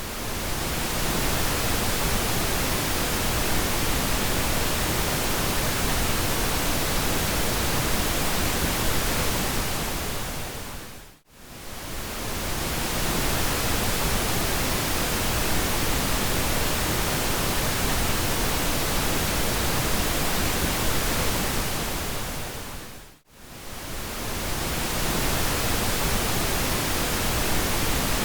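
Steady pink noise, an even full-range hiss. It fades out almost to nothing and straight back in twice, about twelve seconds apart.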